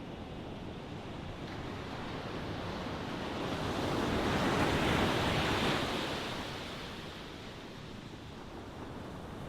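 Ocean waves: a wave swells, breaks about five seconds in and washes back, over a steady surf hiss.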